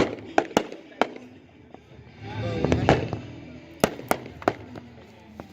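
Fireworks going off in a string of sharp bangs, about eight reports spread across the few seconds, with a louder burst of mixed noise midway.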